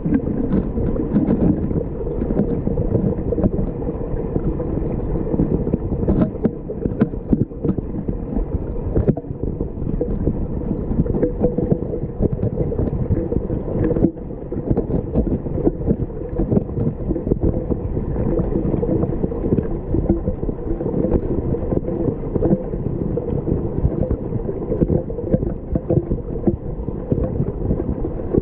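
River water flowing and gurgling: a steady, dense rushing with a low rumble.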